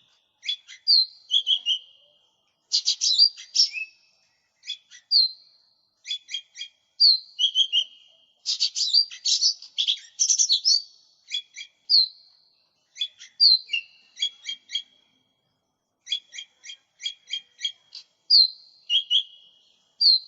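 Cucak ijo mini, a small green leafbird, singing vigorously: phrase after phrase of rapid chattering notes mixed with short whistled slurs, with brief pauses between phrases.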